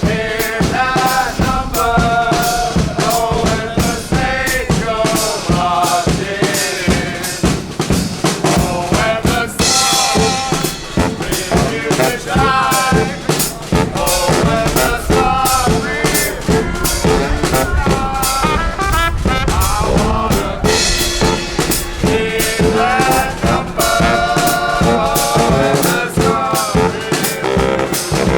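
Live brass band playing a lively tune: horns carry the melody over a driving drum kit with snare and bass drum.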